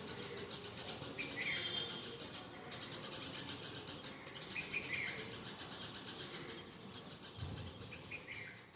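A bird chirping: a short call heard three times, about three and a half seconds apart, over faint steady background noise.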